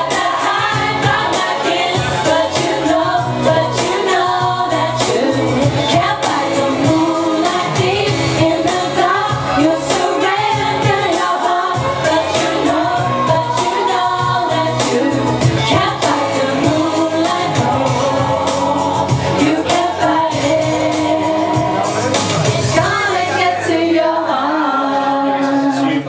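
A singer performing karaoke over a pop backing track; the music thins out near the end.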